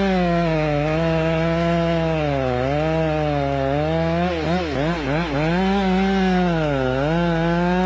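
Chainsaw running while cutting a tree. Its engine note sags and recovers as it works, with a few quick dips in pitch a little past the middle.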